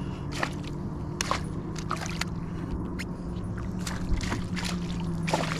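Water sloshing and dripping at a fishing kayak's side, with scattered short taps and splashes as a weed-tangled pike is handled and unhooked, over a low steady hum.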